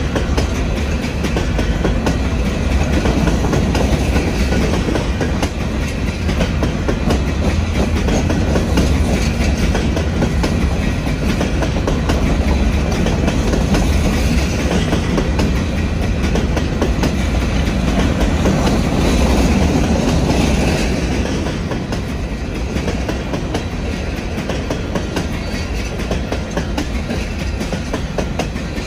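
Empty rock hopper cars of a freight train rolling past close by, a continuous heavy rumble with wheels clattering over the rails. It eases off slightly past the middle.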